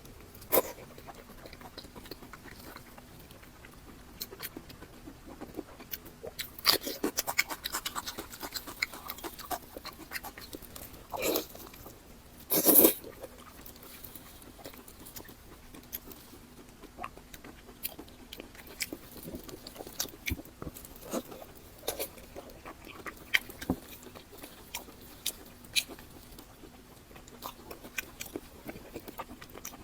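A person eating close to the microphone: a string of short, irregular wet chewing clicks and lip-smacks, with a few louder smacks near the middle.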